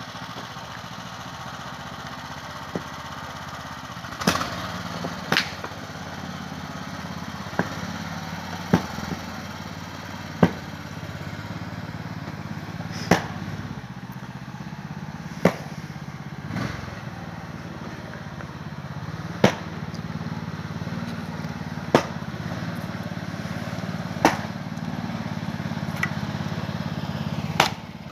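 Sharp cracks of firewood being split with a heavy maul, about one blow every two to three seconds, over the steady hum of an engine running at idle.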